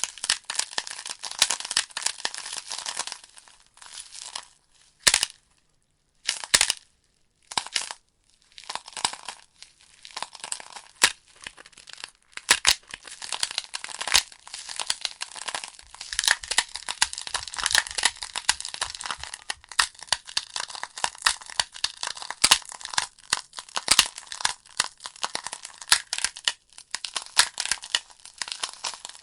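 Burning logs in a fireplace crackling, with dense, irregular sharp pops and snaps. About four seconds in the crackling thins to a few isolated loud pops with short silences between them, then turns dense again.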